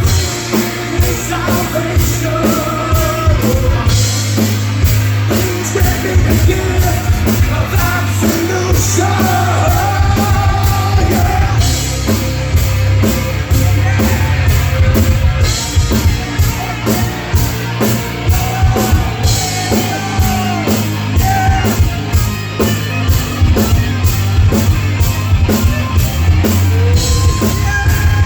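Live heavy metal band playing at full volume, with a fast steady drum beat, a heavy low end and sung, partly shouted vocals.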